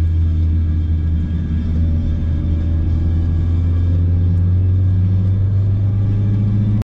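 Ford Focus RS Mk3's turbocharged four-cylinder engine droning steadily at speed, heard from inside the cabin. The sound cuts off abruptly near the end.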